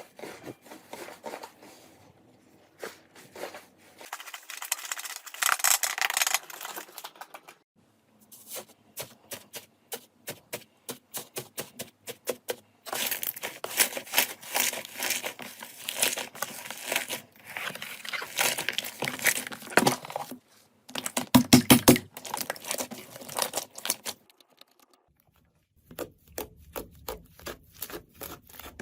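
Slime being worked by hand, with runs of rapid crackling, sticky clicks and pops, broken by short pauses and a few louder pops near the middle.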